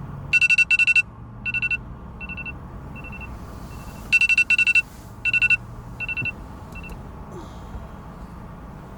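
Rapid electronic beeping at one steady pitch, in short bursts of a few beeps each that start loud and fade away, then repeat about four seconds later, over a low steady hum.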